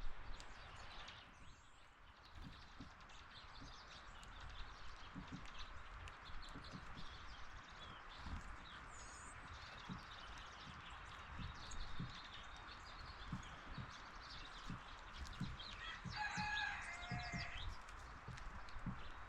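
Faint outdoor ambience with small birds chirping now and then and soft low knocks throughout; near the end a rooster crows once in the distance, about a second and a half long.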